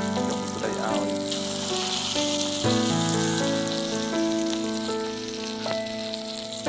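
Chicken and onion sizzling as they fry in a pan. The sizzle rises for about a second, starting a little over a second in. Background music of held chords plays throughout.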